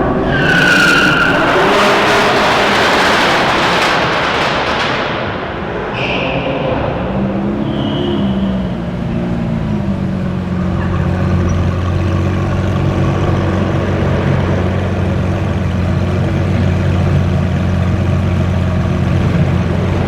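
Lamborghini Aventador SVJ's naturally aspirated V12 revved hard, the revs falling away, with a few short high squeals. It then settles into a steady idle for the second half.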